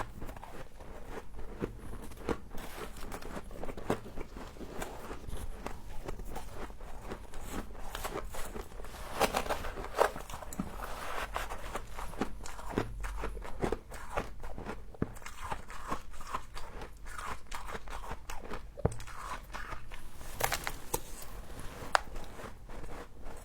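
Close-up crunching and chewing of frost in the mouth: a steady run of irregular crisp crackles and bites, with a few louder crunches along the way.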